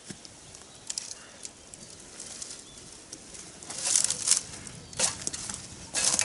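Footsteps crunching on dry forest litter: a faint rustle, then several sharp crunches in the second half.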